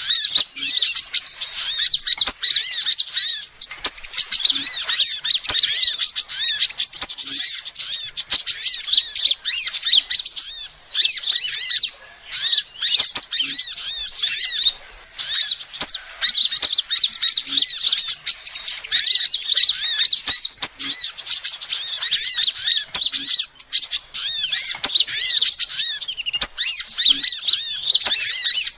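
Female sunbird calling: a rapid, continuous run of high, thin chirps, broken by a few short pauses.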